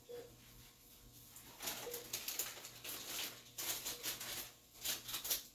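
Crinkling and rustling of sterile supply wrappers and packaging being opened and handled, in irregular bursts from about one and a half seconds in.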